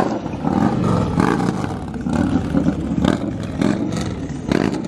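Loud vehicle engines running and revving, rising and falling in repeated swells.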